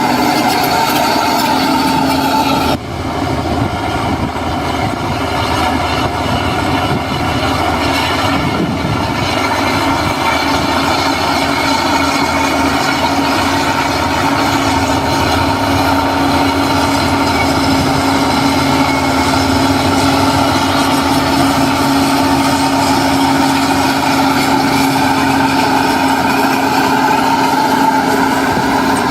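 Heavy diesel construction machinery running steadily under load, with a steady engine whine over a low rumble; the sound changes abruptly about three seconds in.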